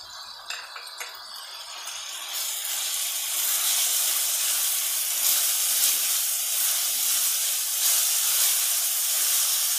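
Onion-tomato masala frying in oil in a kadhai, sizzling as dried fenugreek leaves are stirred in with a steel ladle. The sizzle swells a couple of seconds in and then holds steady.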